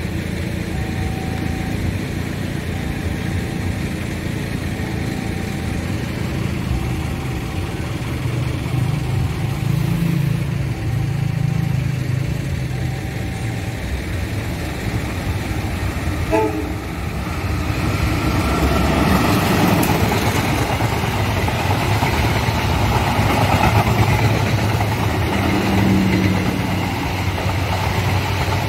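Passenger train running past on the tracks, its noise building from about two thirds of the way in and becoming the loudest sound. Before it, a short electronic tone repeats about once every 1.3 seconds over a low engine rumble, typical of a level-crossing warning signal, and stops about halfway.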